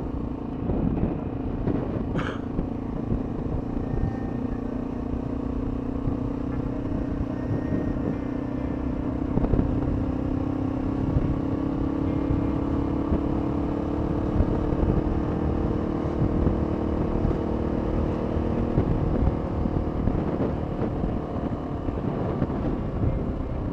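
Honda XR650L's single-cylinder four-stroke engine running under way. Its note climbs gradually a few seconds in and then holds steady, over a low rumble of wind and road.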